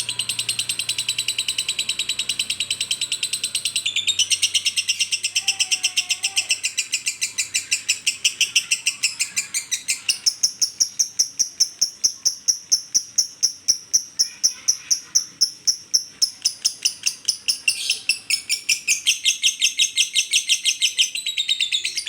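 Lovebird chattering in a long, unbroken run of rapid high chirps, about seven a second, with the pitch of the run shifting several times.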